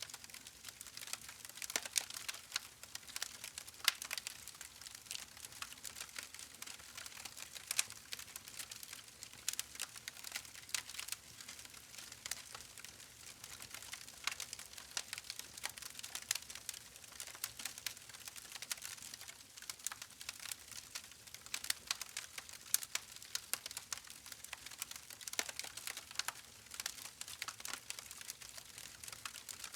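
Campfire crackling: a steady hiss of burning wood broken by many sharp pops and snaps at irregular intervals.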